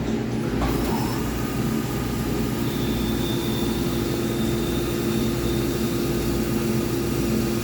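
Gildemeister CTX400-S2 CNC lathe running a part under power: a steady low machine hum with a constant tone. A faint high whine comes in about two and a half seconds in and drops out around six seconds.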